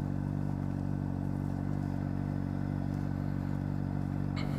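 2009 Honda CBR600RR's inline-four engine idling steadily, with a faint click near the end.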